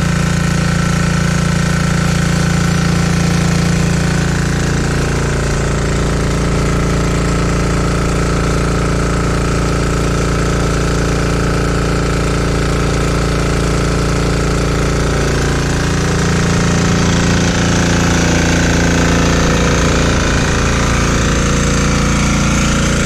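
Single-cylinder 196cc 168F air-cooled diesel engine driving a generator, running steadily on vegetable oil. Its note dips briefly twice, about five seconds in and again around fifteen seconds.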